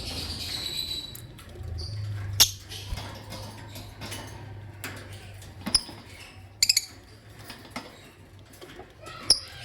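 Lovebirds giving short, sharp, high-pitched chirps every second or two, over a low steady hum.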